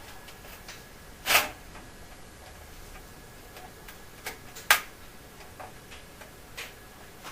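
Sharp clicks and knocks of tools and the dryer's metal cover panel being handled during reassembly: a few irregular strikes, the loudest about a second in and another just before five seconds.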